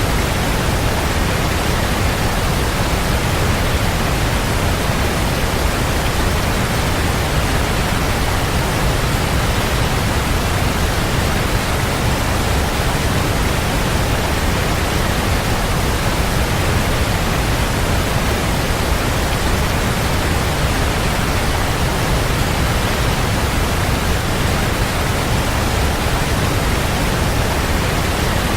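Waterfall: a steady, even rush of falling water, heaviest in the low end, with no changes or separate splashes.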